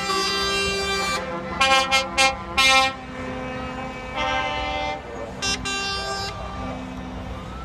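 Vehicle horns sounding in a run of blasts at several different pitches: a long blast, three short toots about two seconds in, then further blasts near the middle and after five seconds, over a steady low hum.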